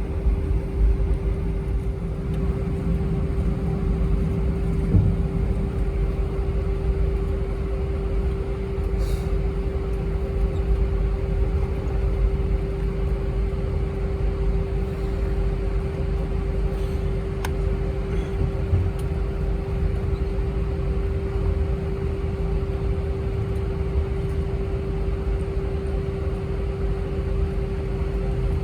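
Airbus A319 cabin noise while taxiing: a steady low engine rumble with one constant hum.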